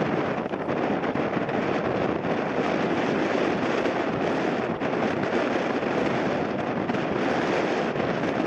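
Strong gusty wind buffeting the microphone: a loud, steady rushing noise with a slight flutter.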